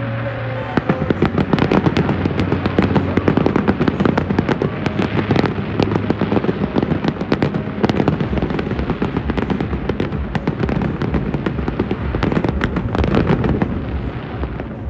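Fireworks display: a dense, rapid barrage of sharp pops and crackles that sets in about a second in and keeps going.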